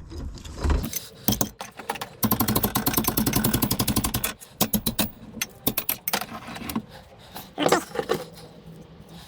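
Metal parts and tools clinking and knocking while a hydraulic jack is taken apart, with a rapid rattling run of clicks lasting about two seconds near the middle, then scattered sharp clicks.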